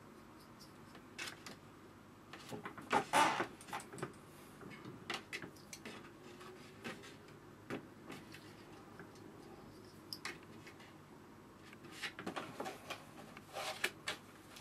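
Scattered rustles and light knocks of watercolour paper being handled and pulled tight on its board to flatten it after it has buckled, loudest about three seconds in and again near the end.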